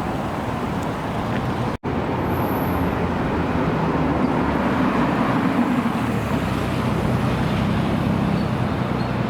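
Car engine running with traffic-like noise, its low hum swelling a little in the middle; the sound drops out for an instant about two seconds in.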